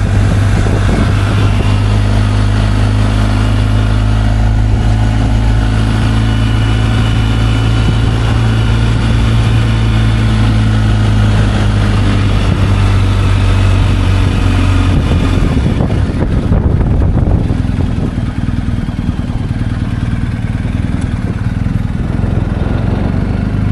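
Motorcycle engine running steadily while riding, then about two-thirds of the way through its note drops and it gets a little quieter as the bike slows.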